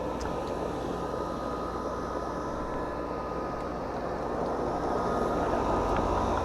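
Central air conditioner's outdoor condensing unit running, compressor and condenser fan giving a steady hum and rush of air. Its subcooling reads low, and the technician suspects the system is low on refrigerant.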